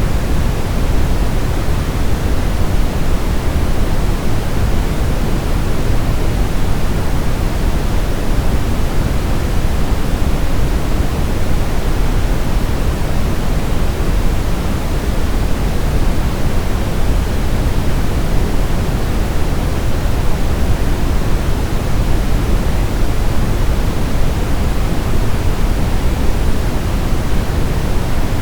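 Steady brown noise: an even, deep rumbling hiss, strongest in the bass and falling off toward the highs, with no change throughout.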